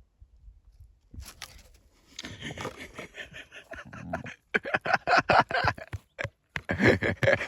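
A sleeping dog dreaming, letting out muffled yips and woofs in quick runs that grow louder in the second half.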